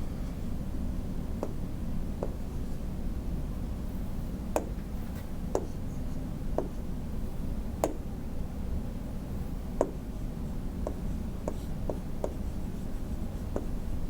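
Irregular sharp clicks, roughly one a second and coming faster near the end, over a steady low hum.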